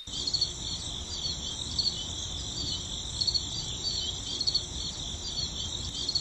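Insects chirping in a steady, high-pitched chorus, with small chirps repeating over a continuous high buzz.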